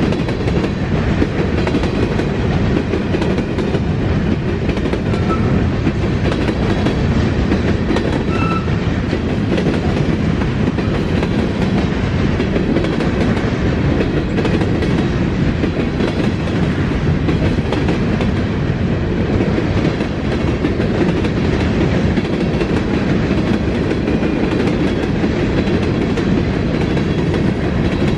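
Freight train cars rolling steadily past at close range, the wheels clattering over the rail joints.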